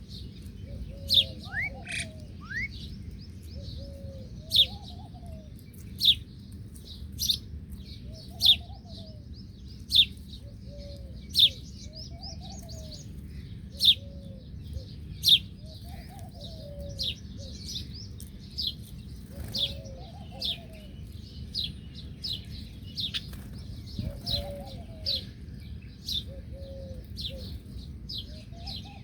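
Small birds giving sharp, repeated chirps, about one every second or so, while a dove coos low in short phrases every few seconds.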